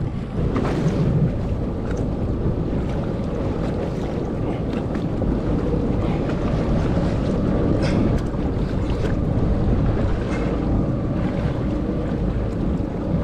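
Wind buffeting the microphone over the steady noise of a small boat on open water, with a few light knocks.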